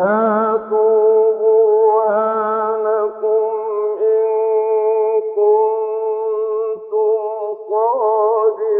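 A single voice reciting the Quran in a melodic chanted style, holding long high notes with wavering ornaments and breaking off briefly about four and seven seconds in.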